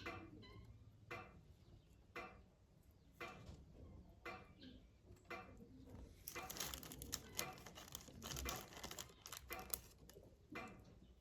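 Faint light knocks about once a second, then a dense flurry of clicking and rattling from about six seconds in.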